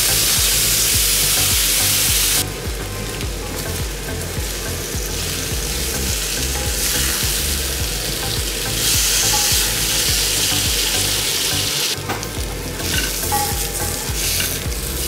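Paneer skewers sizzling in a hot frying pan. The sizzle is loud and steady for the first couple of seconds, then quieter and uneven, swells again midway, and ends with a few light knocks near the end.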